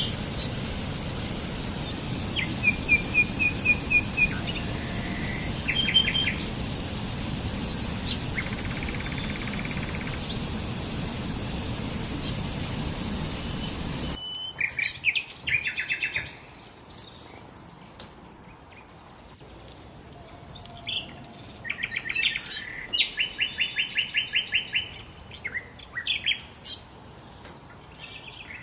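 Songbirds chirping and calling, with short notes and quick trills from several birds. For the first half a steady rushing background noise runs under them and cuts off suddenly about halfway, leaving the birds alone and clearer.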